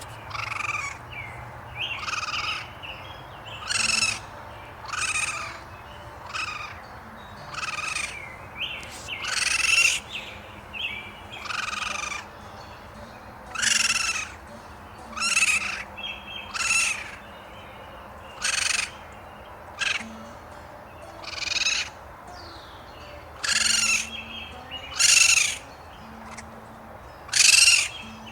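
A bird calling over and over, about twenty short, rasping calls coming roughly every second or so.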